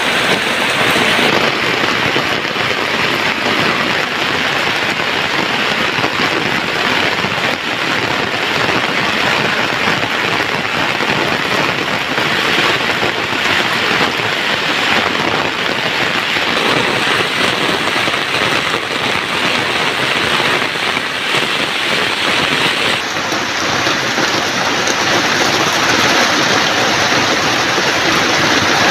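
Heavy rain falling steadily, a dense even hiss whose tone shifts slightly a couple of times.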